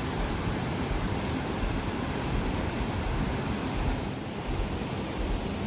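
Waterfall on the Baitarani river: a steady, even rush of falling water with no breaks.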